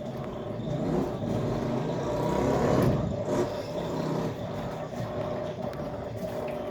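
Electrolux LAC13 13 kg top-load washing machine agitating the load after filling: a steady motor hum over the churn of water and laundry, swelling for a couple of seconds then easing.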